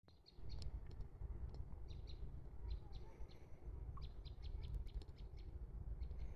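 Small birds chirping: many short, high notes scattered irregularly, over a steady low rumble.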